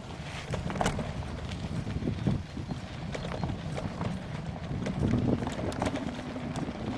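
Wind buffeting a 360 camera's microphone with a steady low rumble, over irregular rattles and clicks from riding a rough trail.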